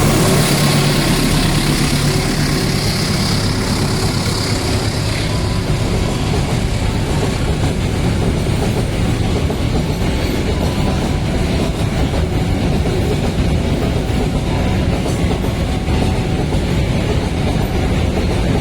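A coal train rolling past, its diesel locomotive's engine heard in the first few seconds, then a steady rumble of wagons with the clickety-clack of wheels over rail joints.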